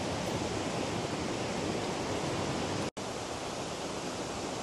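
Steady rushing of fast-flowing water, a creek or falls along the trail, with a brief dropout about three seconds in.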